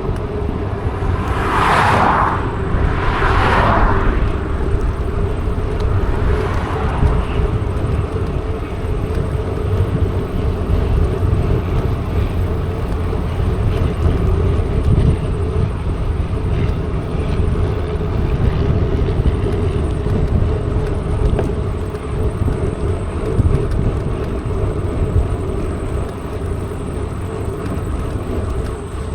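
Steady rumble of wind on the microphone and tyres rolling during a mountain bike ride, with two brief swells of hissing noise a couple of seconds in.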